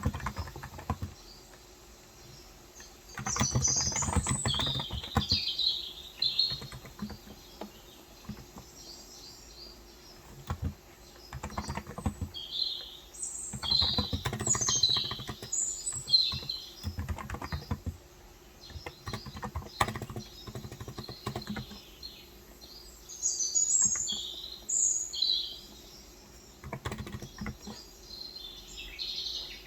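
Typing on a Cox Endeavour electro-capacitive (Topre-style, 35 g) tenkeyless keyboard, in bursts of a few seconds with short pauses between, while small birds chirp repeatedly in the background.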